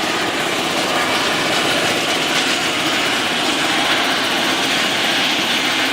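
Helicopter running steadily on the ground after landing, an even turbine-and-rotor noise that holds level throughout.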